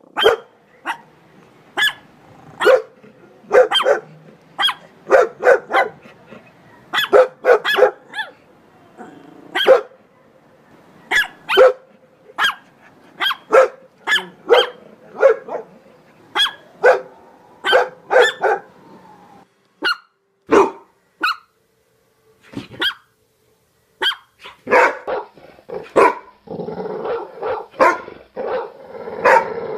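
Dog barking over and over in short, sharp barks, in uneven runs with a short pause about three-quarters of the way through, then coming thicker near the end.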